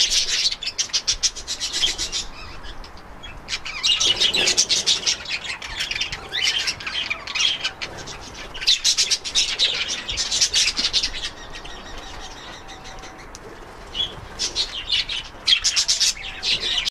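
A flock of aviary budgerigars chirping and chattering in several bouts of busy twittering, with short quieter lulls between them.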